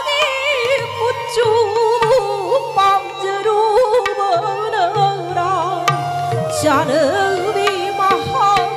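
Live Manipuri classical dance music: a female voice and melody instruments (violin and flute) move through ornamented, wavering lines over a steady drone, with scattered drum strokes.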